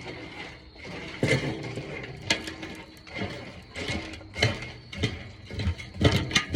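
Dry dog food with rice and oatmeal being stirred and mixed by hand: repeated rattling, scraping strokes, about one or two a second. Music comes in near the end.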